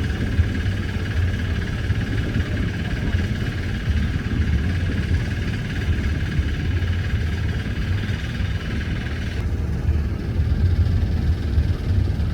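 Fast passenger boat's engines running, a steady low rumble. A thin, steady higher whine cuts off about nine seconds in while the rumble carries on.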